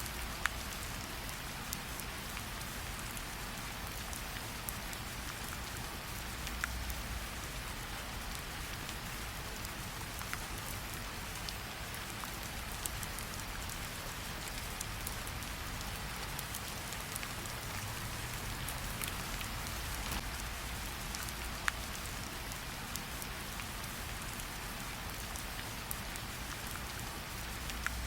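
Steady rain falling on a surface, with scattered sharp crackles and pops from a campfire.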